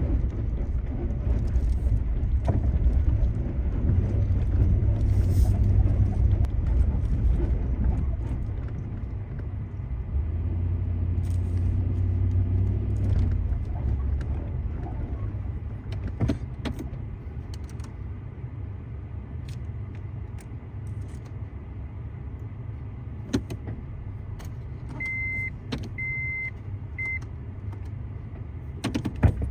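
Off-road vehicle's engine running at low speed as it crawls over a rutted, potholed dirt trail, with scattered knocks and rattles from the bumps. Near the end come three short high electronic beeps.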